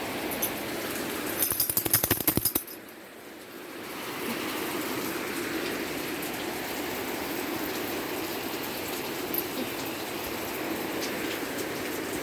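Heavy rain falling steadily. About a second and a half in comes a quick run of loud, sharp clicks lasting about a second, after which the rain sound dips briefly before returning.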